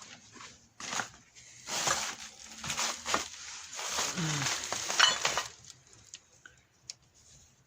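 Metal car parts being handled: a few sharp knocks, then about four seconds of scraping, rattling and clinking as the hub and brake-disc assembly is moved about.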